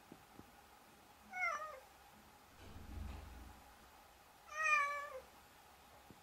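Domestic cat meowing twice: a short call with falling pitch, then a longer meow that holds its pitch and drops at the end. A soft low rumble comes between the two.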